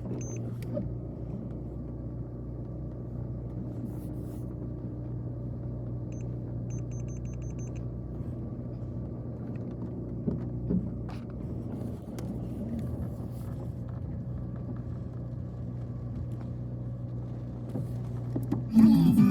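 Steady engine and road rumble heard from inside a moving car, with a constant low hum. A short burst of rapid ticking comes about six seconds in.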